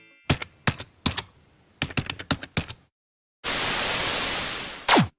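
A dozen keyboard-typing clicks in two quick runs, then a short silence and a burst of steady static hiss that ends in a fast downward swoop, typical of an edited outro sound effect.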